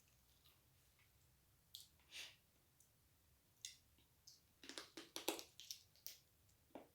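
Close-miked eating sounds: a person chewing with wet mouth clicks and small crunches, a few at first, then a quick cluster about five seconds in.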